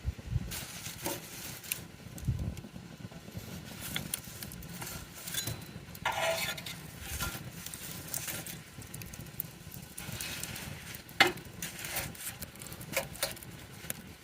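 Campfire of burning wood crackling, with irregular snaps and pops and one sharper pop about eleven seconds in.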